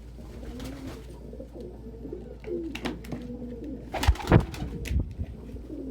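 Domestic pigeons cooing in a small loft, low and wavering. A few sharp knocks come about four seconds in, the loudest sound.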